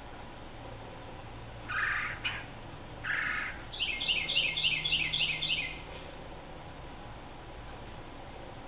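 Several birds calling. A high, thin chirp repeats about twice a second throughout. Two short harsh calls come around two and three seconds in, and a fast trill of falling notes runs from about four to six seconds in.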